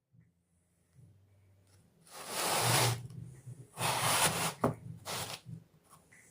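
Block of gym chalk being rubbed and crumbled by hand: three rasping strokes, the first about two seconds in and the longest, with a sharp click between the second and third.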